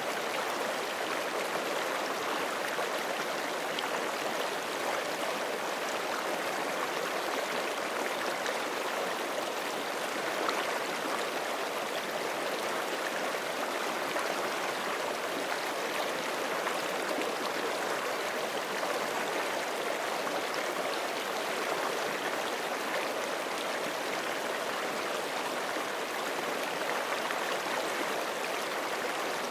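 Forest creek flowing over rocks: a steady rushing and gurgling of running water, unchanging throughout.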